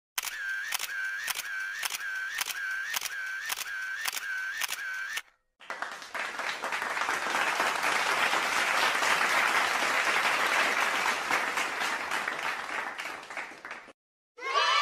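Camera shutter sound effect clicking about twice a second, around ten shots in a row. After a brief pause, a crowd's applause swells and then fades away.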